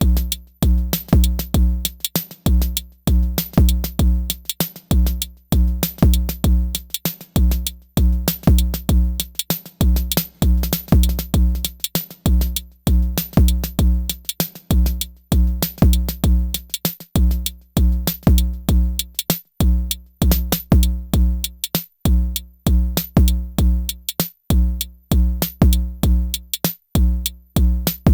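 Elektron Syntakt drum machine playing a looping electronic drum pattern: deep kick drum with sharp, bright hits between, over a low pitched tone.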